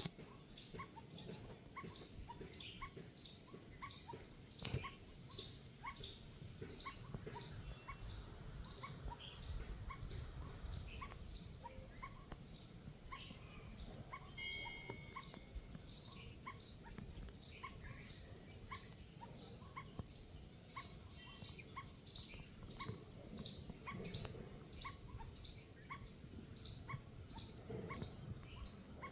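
A bird repeats a short high call about twice a second, steady and regular, faint over a low outdoor rumble.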